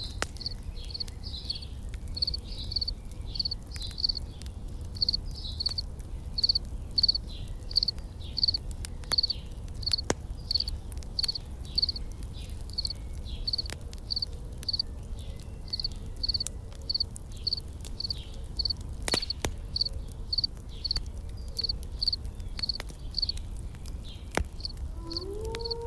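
Insects chirping in a steady, even rhythm of about two to three high chirps a second, over a low rumble, with a few sharp campfire crackles.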